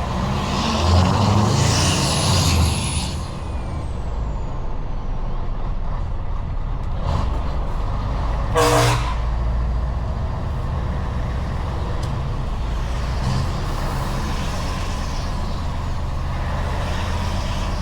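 Heavy truck's diesel engine running steadily. Its air system lets out a hiss soon after the start, with a whistle falling in pitch. About halfway through there is a short, sharp burst of air from the air brakes.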